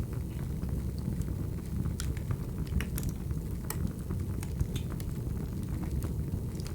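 Wood fire burning with a steady low rumble and irregular sharp crackles and pops of the burning logs.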